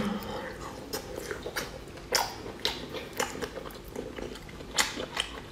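A person chewing a large mouthful of sauce-coated food close to the microphone: wet, irregular smacks and clicks of the lips and mouth, roughly every half second.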